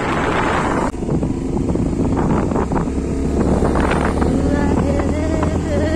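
Wind buffeting the microphone over a vehicle's running engine while riding along; the wind roar eases about a second in, leaving the steady low engine rumble.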